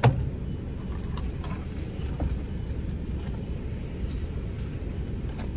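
Car engine idling, a steady low rumble heard inside the cabin. A sharp knock right at the start, then a few faint light clicks.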